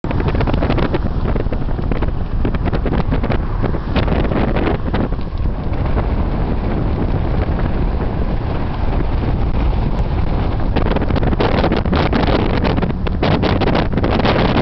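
Strong wind buffeting the microphone in loud, gusty blasts, a continuous rumbling roar with rapid irregular thumps.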